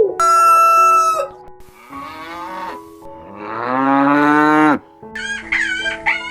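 A cow moos once near the middle, a long call that rises and then falls in pitch. It comes after a short high-pitched animal call at the start. Several quick, bending animal calls follow near the end.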